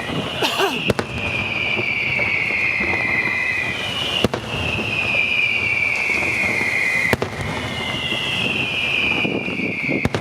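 Fireworks display: a run of high whistles, each sliding down in pitch over about three seconds, broken by sharp bangs roughly every three seconds.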